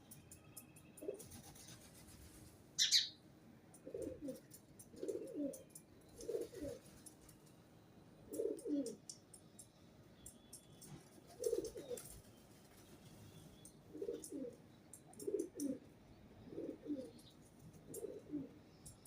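A pigeon cooing over and over, each coo a low doubled note, about ten coos a second or so apart. About three seconds in comes a single sharp, high bird chirp, the loudest sound.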